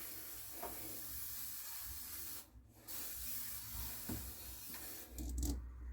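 A steady hiss that cuts out briefly about two and a half seconds in and again near the end, with a few faint clicks.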